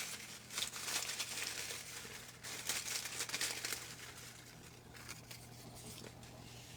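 Paper slips crinkling and rustling inside a hat as a hand rummages through them, strongest over the first four seconds, then fainter.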